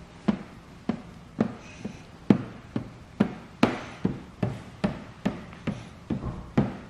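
Plastic squeegee stroking over wet paint protection film on a car's rear hatch: a quick run of short, sharp swipes, about two a second, pressing out fingers of built-up film.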